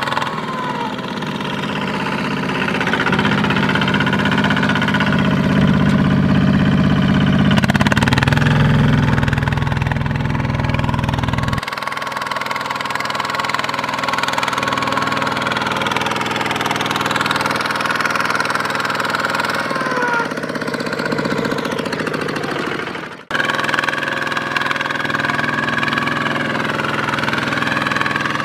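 Small Kubota RT/ZT-series single-cylinder diesel engines on two-wheel tractors running steadily, with a knocking beat. A heavy low throb sounds through the first part and drops away about twelve seconds in. The sound cuts out abruptly for an instant about three-quarters of the way through.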